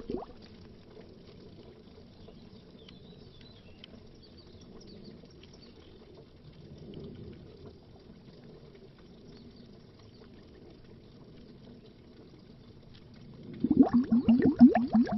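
Underwater bubbling. Loud, rapid bubbling stops right at the start, leaving a faint low water murmur with a few small scattered bubbles, and the loud rapid bubbling comes back near the end.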